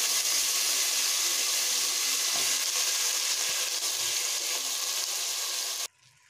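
Marinated mixed vegetables sizzling in hot oil in a cooking pot: a steady frying sizzle that cuts off suddenly near the end.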